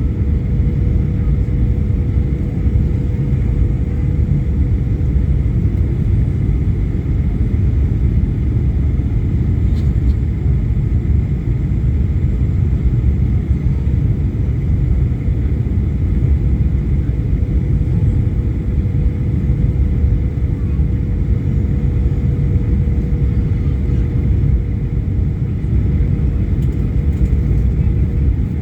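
Steady low rumble of a moving vehicle, with a constant mid-pitched hum running through it.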